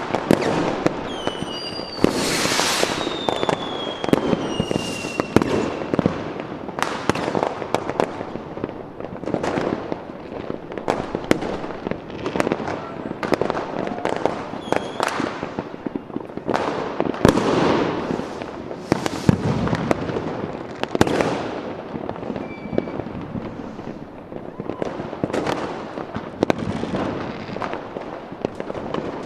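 Fireworks going off continuously, a dense run of bangs and crackling pops with no break. About two seconds in, a whistling tone glides down in pitch over a few seconds.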